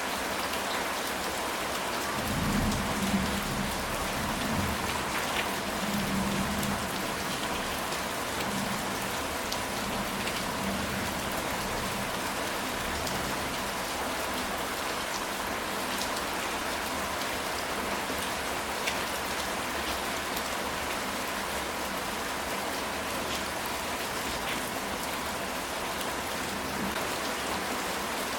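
Steady rain falling on a ceramic tile roof, with scattered drop ticks. A low rumble of thunder runs from about two to seven seconds in.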